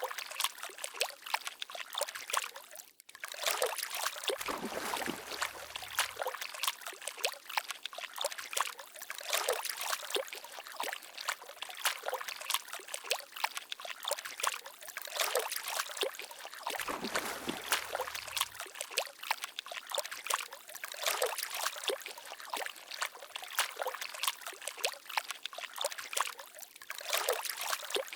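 Water trickling and babbling continuously, a dense patter of small splashes. The sound drops out briefly about three seconds in, and a faint low rumble comes in twice, about twelve seconds apart.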